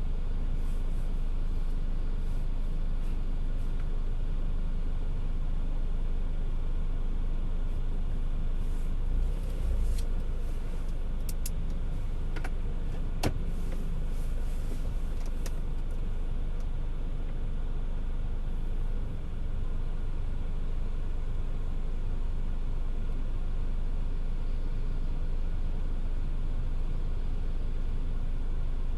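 A car driving in the rain: a steady low rumble of engine and road noise with an even wash of rain, and a handful of sharp ticks about halfway through.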